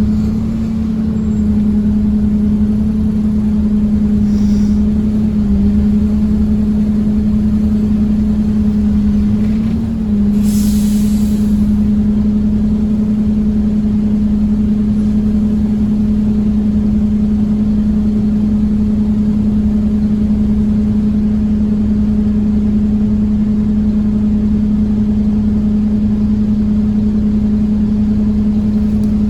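Scania OmniCity bus heard from inside the cabin, running steadily at speed with a constant engine and drivetrain drone. A short hiss of air comes about ten seconds in.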